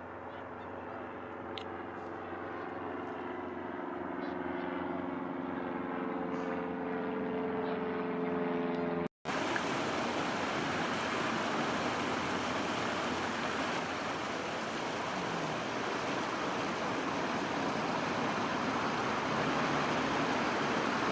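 A passing engine hum, growing louder with its pitch sinking slightly, then cut off abruptly about nine seconds in and followed by a steady rushing noise.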